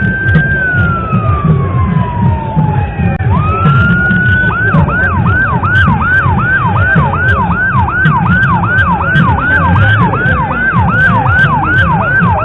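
Emergency vehicle siren sounding a slow wail that rises, then falls over about three seconds. It then switches to a fast yelp, sweeping up and down about two and a half times a second, over a steady low rumble.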